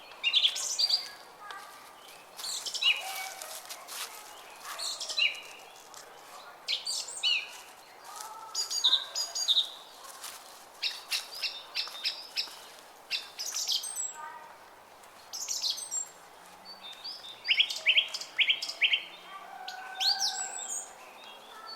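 Several small songbirds chirping and singing, with quick runs of repeated notes now and then, over the faint steady babble of a brook.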